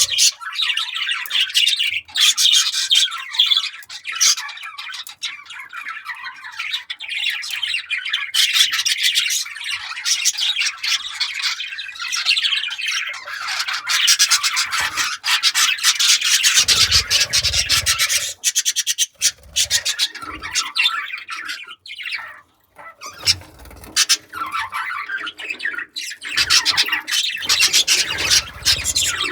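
Budgerigars chattering and warbling in a fast, scratchy stream, with a few dull low thumps in the second half.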